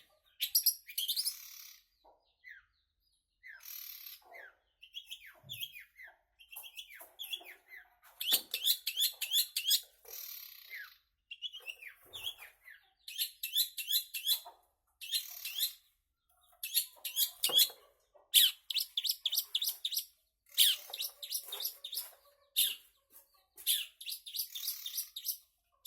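Long-tailed shrike (cendet) singing in bursts of rapid, high chattering phrases, broken by short pauses of a second or so.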